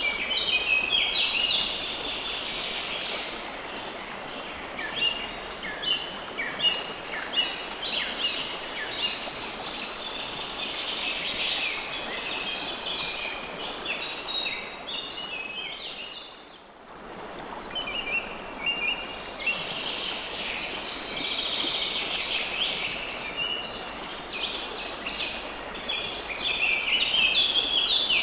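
River water flowing steadily with many small birds chirping rapidly over it. The chirping is thickest at the start and again in the last third, and the whole sound dips briefly just past the middle before returning.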